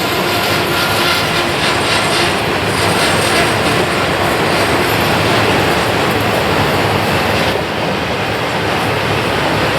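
A long freight train's cars rolling past on jointless rail in a steady heavy rumble. A faint wheel squeal in the first few seconds comes from the flanges grinding through the tight curve.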